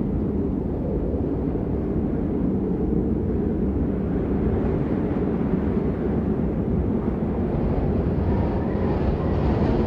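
Steady rain noise, a dense, muffled wash that is heaviest in the low range with little hiss on top, continuous and unchanging.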